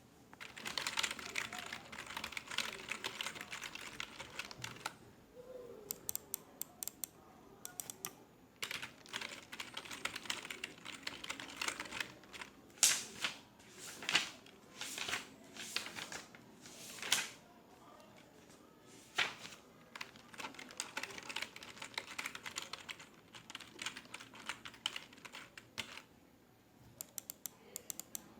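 Computer keyboard typing in bursts: fast runs of keystrokes alternate with slower, louder single key strikes, with short pauses between runs.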